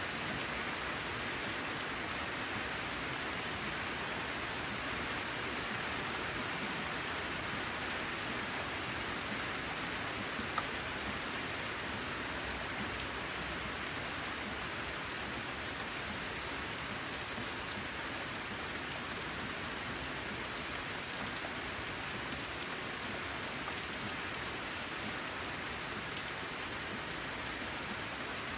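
Steady rain falling, an even dense patter, with a few sharper drop clicks now and then.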